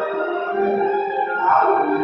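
Sustained background keyboard music: soft held chords with a slow-moving melody.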